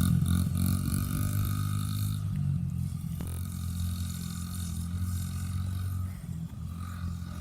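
Small 50cc dirt bike engine running at fairly steady revs, loud at first and fading as the bike moves away.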